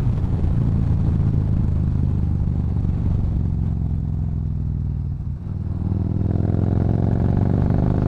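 Yamaha Bolt's air-cooled V-twin running through an aftermarket Cobra exhaust while riding at a steady cruise. It eases off briefly a little past five seconds in, then pulls again with a rising engine note.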